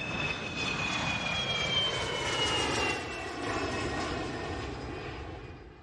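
Airliner jet engines running: a steady rumble with a high whine that slowly falls in pitch, fading out near the end.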